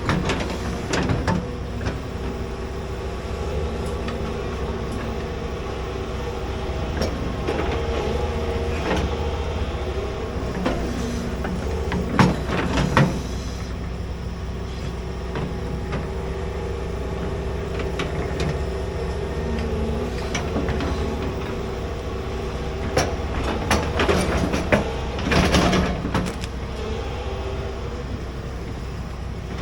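Large excavator's diesel engine running steadily under load while digging a trench, with short knocks and scrapes from the bucket and boom, loudest about twelve seconds in and again in a cluster a few seconds before the end.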